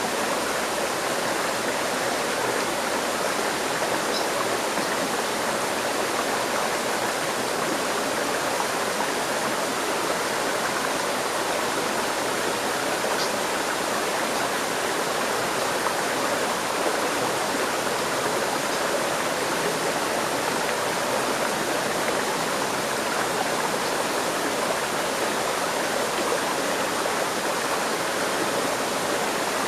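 River stream flowing steadily over rocks: a continuous, even rush of water.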